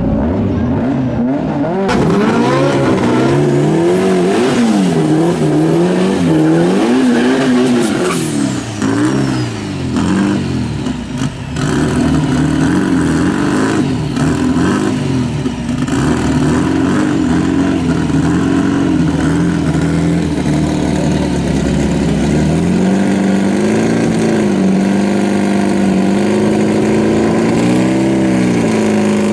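Drag-race VW Beetle's exposed rear-mounted engine revving up and down in repeated blips, then running at a fast, fairly steady idle with a few more blips near the end.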